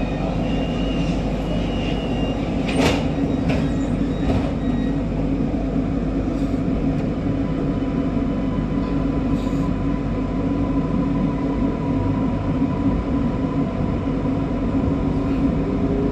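MRT Kajang Line metro train running along the track, a steady rumble with a few sharp clicks about three to four seconds in. A thin steady whine comes in from about halfway through.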